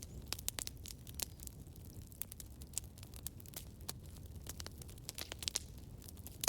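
Campfire crackling: burning wood sending out many quick irregular pops and snaps over a low steady rumble of the flames.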